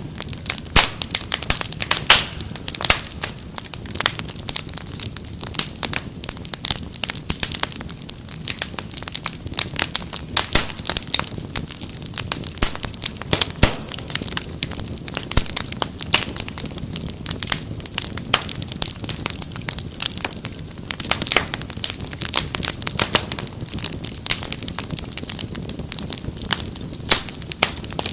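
Wood fire crackling steadily, with frequent sharp irregular pops and snaps over a soft low rumble of burning.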